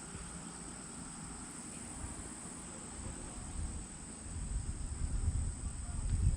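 Wind buffeting the microphone in low rumbling gusts that grow stronger in the second half, over a steady high chirring of crickets.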